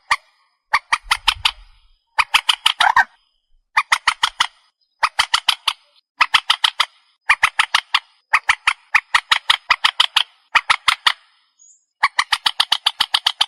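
Recorded lure call of the trích ré, a swamphen: bursts of rapid, harsh repeated notes, about one burst a second, each lasting just under a second.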